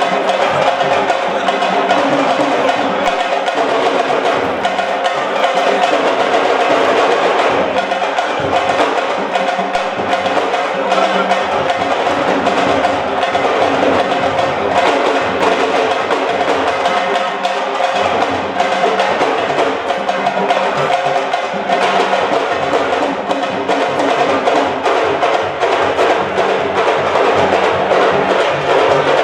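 Fast, continuous drumming with many quick strokes and no break.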